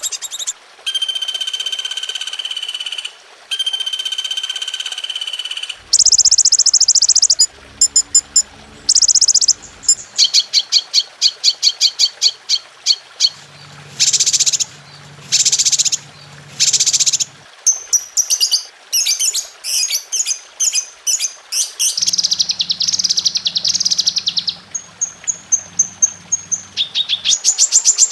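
Recorded songbird calls played back to back: two long steady whistles near the start, then rapid repeated chirps and fast high trills. The phrase type changes abruptly every second or two, as in a masteran training track of mixed bird songs.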